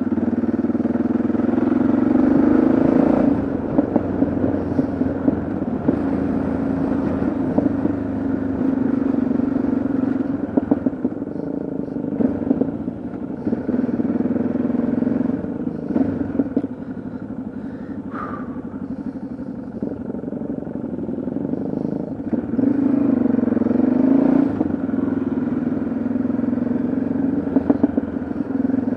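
Yamaha XT660Z Ténéré's single-cylinder engine running on the road under changing throttle, swelling louder near the start and again about three-quarters of the way through, with some clatter.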